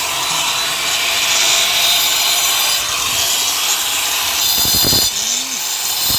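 Grinder cutting zigzag grooves into a wall, a steady, loud, gritty grinding noise that dips briefly near the end. The cuts break up the marked-out area into small pieces for hand chiselling.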